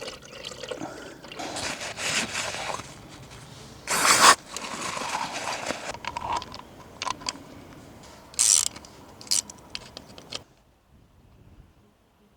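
Irregular mechanical scraping and clicking, like metal parts or tools being handled, with louder scrapes about four and eight and a half seconds in. It stops about ten seconds in.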